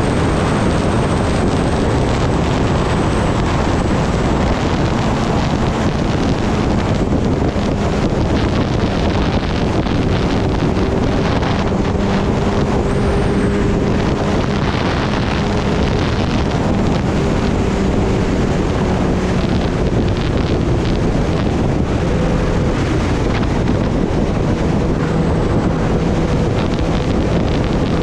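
Loud wind rushing over the microphone while riding at speed, with the steady note of a Kawasaki Ninja ZX-10R's inline-four engine underneath. The engine's pitch shifts a little about three quarters of the way through.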